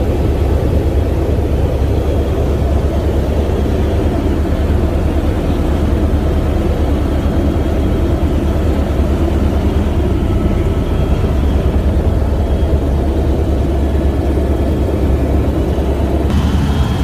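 Helicopter in steady flight: loud, even rotor and engine noise with a fast low beat from the rotor blades.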